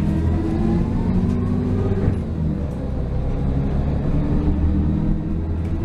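Bus engine rumbling as the bus pulls away, with a whine that rises in pitch over the first two seconds.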